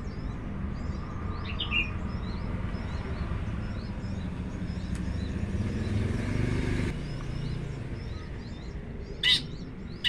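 Small birds chirping faintly and often over a steady low rumble, which cuts off about seven seconds in. Near the end comes one short, loud, sharp noise.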